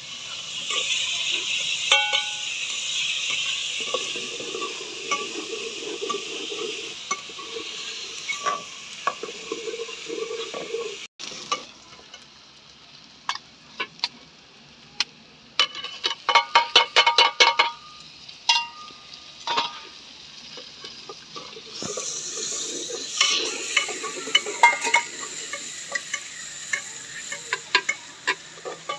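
Sliced onions sizzling in oil in an aluminium pot over a wood fire, with a steel ladle scraping and clinking against the pot as they are stirred. About halfway, the sizzle drops away and a quick run of metal clinks follows, a spoon on a steel plate. Near the end the sizzling picks up again once chopped tomatoes are in the pot.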